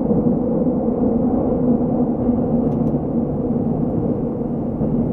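Seoul subway train running between stations, heard from inside the car: a steady rumble with a low, even hum.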